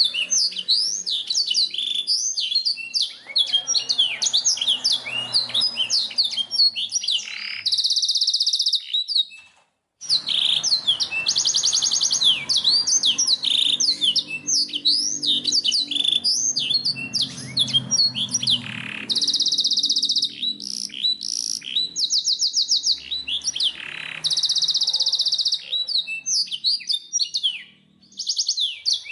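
Black-throated canary (blackthroat) singing a fast, continuous song of chirps and whistles, broken by several buzzing rapid trills. The song stops briefly about a third of the way in and again near the end.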